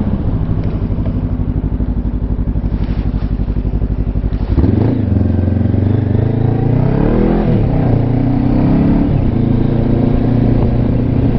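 Honda CB500X parallel-twin engine ticking over with an even pulse. About four and a half seconds in, the engine speed jumps up sharply, rises and dips, then settles into steady, louder running.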